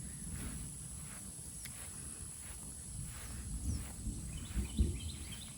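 Footsteps walking along a driveway over a low rumble of wind on the microphone, with faint animal calls about four seconds in.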